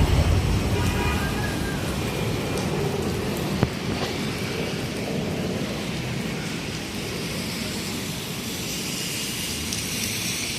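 Rain and wet-street traffic noise, a steady hiss that slowly fades as a vehicle moves off, with a single sharp tick about three and a half seconds in.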